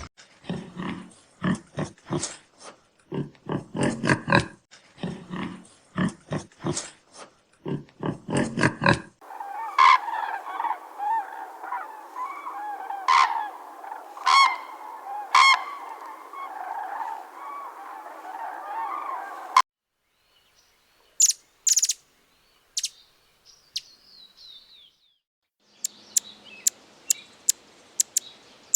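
Animal calls in a run of separate recordings: short calls about two a second for the first nine seconds, then many animals calling together until a sudden cut, then a few scattered calls and sharp clicks.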